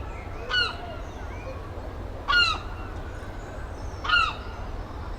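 A bird calling three times, evenly spaced about two seconds apart, the middle call loudest, over a steady low rumble.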